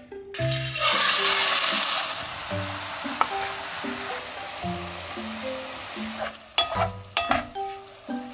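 Diced chicken thigh frying in hot oil in a pot: a loud sizzle starts about half a second in, then eases to a steady sizzle as it is stir-fried. A few sharp scrapes of a wooden spatula come near the end.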